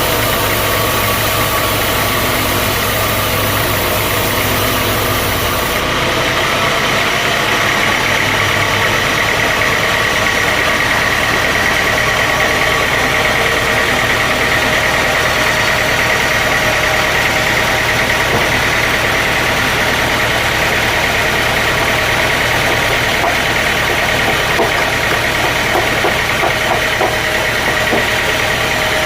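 Sawmill machinery running steadily with a high whine. About six seconds in, the deep rumble drops away and the whine comes up stronger.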